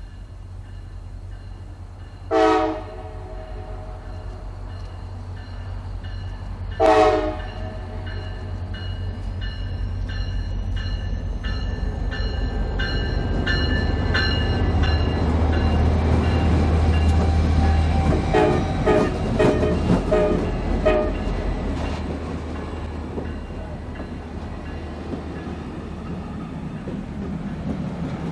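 Diesel locomotive horn sounding two short blasts, then the train rumbling past, its engines building to a peak and fading away. Wheels click over the rail joints and a few more short horn toots sound as it passes.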